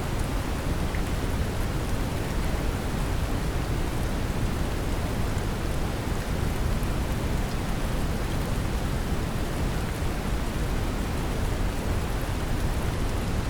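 Steady brown noise mixed with a recording of gentle rain: an even, deep rushing hiss heaviest in the low end, with faint patter of raindrops on top.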